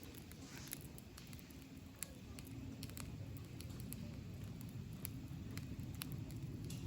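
Wood campfire crackling: irregular sharp pops and snaps, several a second, over the low steady rumble of the burning fire.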